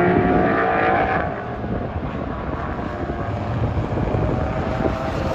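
Race car engine running hard on the track, its pitched note fading away about a second in, leaving a steady wash of more distant engine and track noise.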